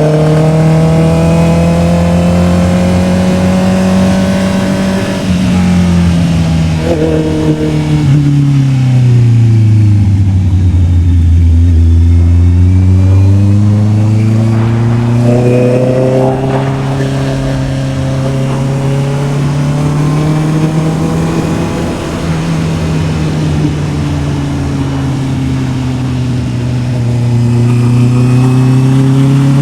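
Honda CB650R's inline-four engine under way: the exhaust note falls steadily for about six seconds as the bike slows, stays low briefly, then climbs back as it accelerates and holds a steady cruise, with a smaller dip and rise near the end.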